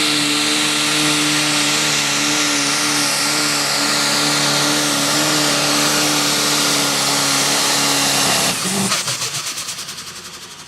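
Super stock pulling tractor's turbocharged engine running flat out at steady high revs with a loud hiss. About eight and a half seconds in it shuts off abruptly and spins down with a fast, fading rattle.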